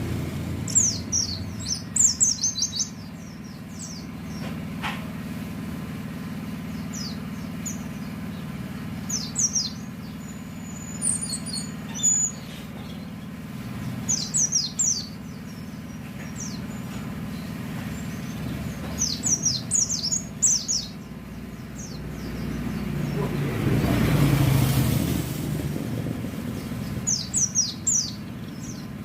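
White-eye (pleci) singing in short clusters of quick, high chirps, about six bursts over a steady hum of road traffic. A vehicle passes about three-quarters of the way through.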